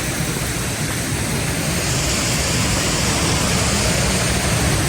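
Small creek waterfall pouring into a pool: a steady, even rush of water, a little louder from about two seconds in.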